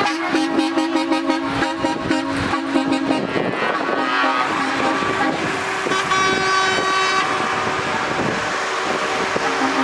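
Truck air horns blowing over passing traffic. A low two-note horn sounds in the first few seconds, and a higher horn blasts for about a second near the middle.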